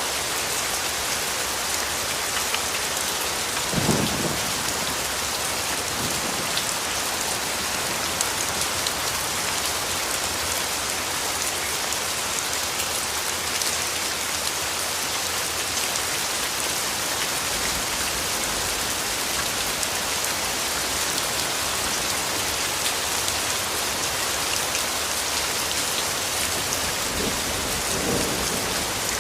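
Steady rain falling with an even hiss. A low rumble of distant thunder comes in about two-thirds of the way through, with brief low thuds about four seconds in and near the end.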